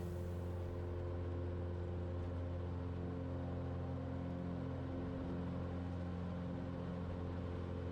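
Cessna 182's single piston engine and propeller droning steadily in flight, the even engine note heard from inside the cabin during the climb.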